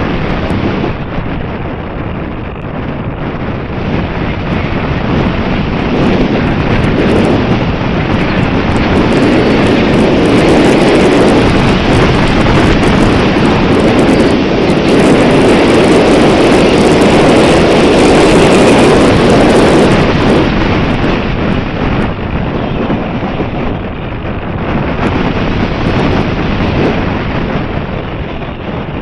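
Strong wind buffeting the microphone: a loud, even rushing that swells for a stretch through the middle, then eases off.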